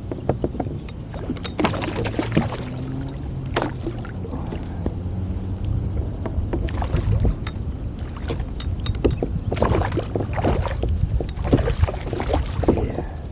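Water lapping and splashing against a plastic fishing kayak's hull, with scattered knocks and clicks throughout.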